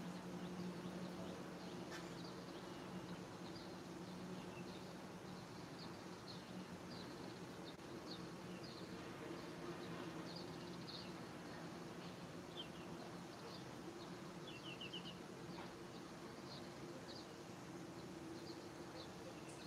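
Outdoor ambience of birds giving short, high chirps scattered throughout, with a quick run of notes about fifteen seconds in, over a steady low hum.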